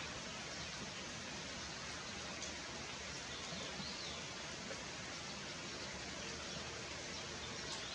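Steady rain noise: an even hiss that holds one level throughout, with a few faint, short high chirps over it.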